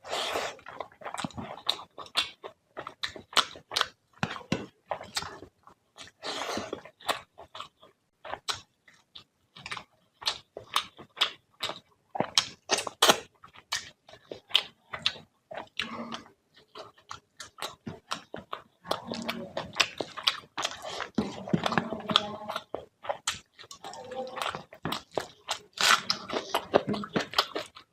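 A person chewing fish curry and rice with open-mouthed smacking, a fast, irregular run of wet clicks.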